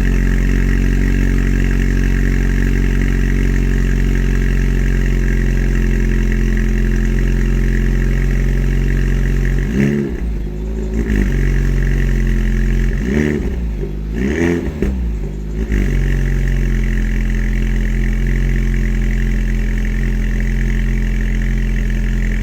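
Alpine A110's mid-mounted 1.8-litre turbocharged four-cylinder engine idling through its exhaust just after a cold start, a steady hum. About ten seconds in it is revved up and down in several short blips over some five seconds, then settles back to idle.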